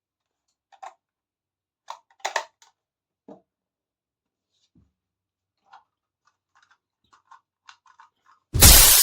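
Small plastic toy kitchen pieces clicking and tapping as they are handled, in scattered single clicks and a quick run of light ticks. Near the end comes a loud, sudden crash-like burst of noise that fades over about a second.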